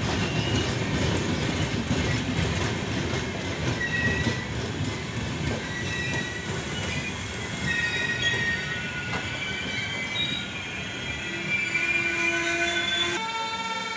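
A train running on the tracks: a steady wheel-and-rail rumble with short high-pitched wheel squeals. Near the end the rumble drops away and a steady horn tone begins.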